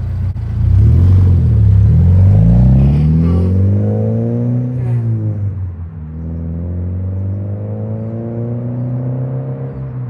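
Subaru BRZ's flat-four engine through an aftermarket exhaust of unknown make, accelerating. The engine note climbs, drops sharply at an upshift about five seconds in, then climbs again a little quieter.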